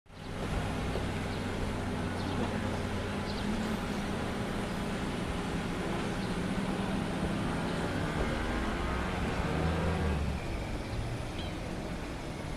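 A motor vehicle's engine running close by, a steady low drone that drops away about ten seconds in, over background street noise.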